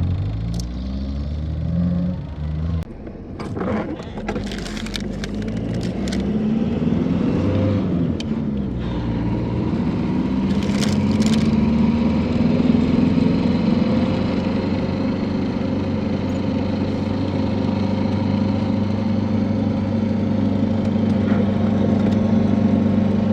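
A truck's engine pulling away: a few clicks and knocks early on, then the engine revs up and down through the gears, settling into a steady running drone from about ten seconds in.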